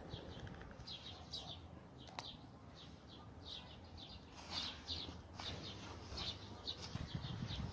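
Small birds chirping: many short, high chirps, some in quick runs of two or three, over a faint low background rumble.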